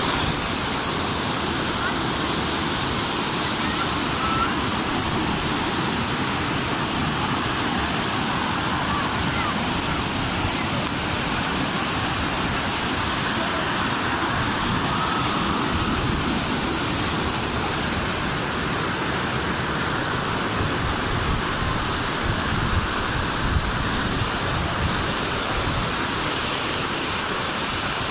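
Waterfall pouring at close range, heard from inside the falling water: a loud, steady rush of water.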